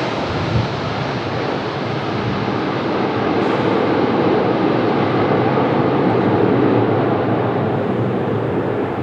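Airbus A330-200's jet engines at high thrust during a go-around, a steady rushing noise that swells toward the middle and eases near the end.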